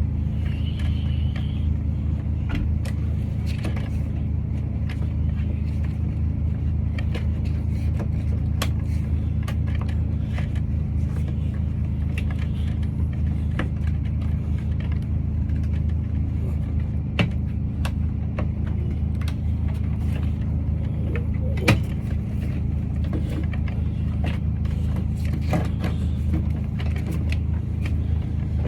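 A vehicle engine idling steadily with a low hum, with scattered light clicks and two sharper knocks partway through.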